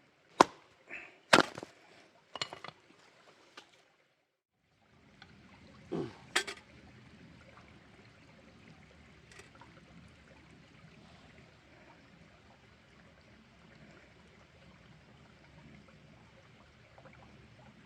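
Three sharp knocks of wood being chopped or split in the first few seconds. After a short break, a couple more knocks about six seconds in, then the steady rush of a mountain stream.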